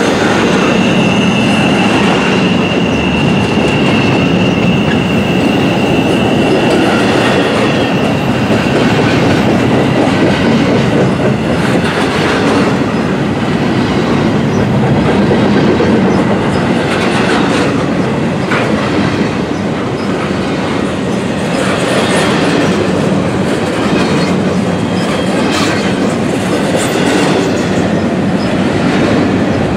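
Double-stack intermodal freight train's container well cars rolling past at close range: a loud, steady rumble of steel wheels on rail with occasional clacks. A thin, steady wheel squeal rides over it for the first several seconds.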